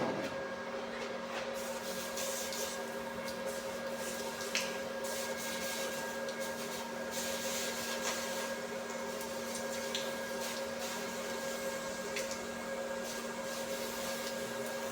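Steady machine hum with irregular crackling and a few sharp ticks.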